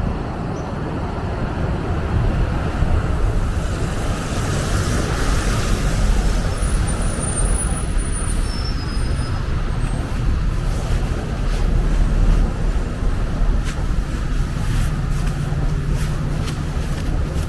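City street traffic: a steady low rumble of vehicles, with one vehicle passing and swelling loudest about five seconds in. Faint light clicks come through in the second half.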